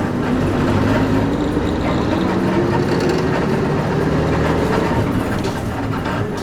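Interior running sound of a Nissan Diesel KC-UA460LSN leaf-sprung bus with a PG6 diesel engine and five-speed overdrive gearbox. The engine is pulling steadily, and its note rises in pitch over the first few seconds before settling lower, over constant road and body noise.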